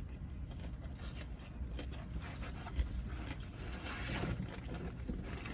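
Faint eating sounds of a person chewing fried chicken: small clicks and rustles, with a short crunchy rustle about four seconds in, over a steady low hum.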